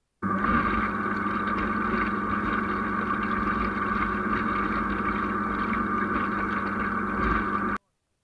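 Boat motor running steadily at an even speed, cutting in suddenly and stopping abruptly near the end.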